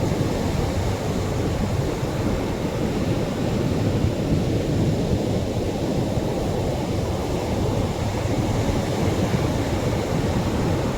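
Atlantic surf breaking on a beach: a steady, low rumble of waves with no single crash standing out.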